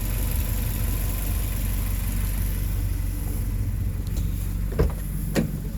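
Suzuki Jimny 1.5's four-cylinder engine idling steadily through an aftermarket ALOSi exhaust manifold. Two short knocks come about half a second apart near the end.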